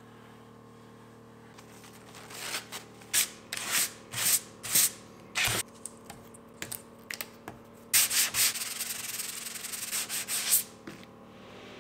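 Sanding by hand, sandpaper rubbing in separate strokes that become a quick, continuous run of strokes about eight seconds in.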